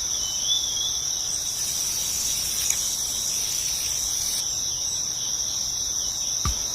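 Steady high-pitched chirring of crickets or similar insects, with a single knock near the end.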